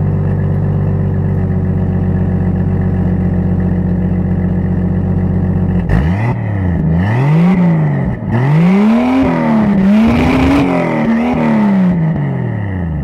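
1989 Toyota Supra Turbo's 7M-GTE turbocharged inline-six idling steadily through a 3-inch exhaust with a Flowmaster 40 series muffler, then revved in several quick throttle blips about halfway in, the pitch climbing and falling each time before dropping back toward idle near the end.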